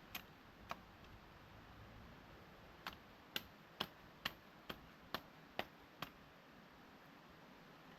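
Sharp, light taps: two single ones at the start, then a steady run of eight, a little over two a second.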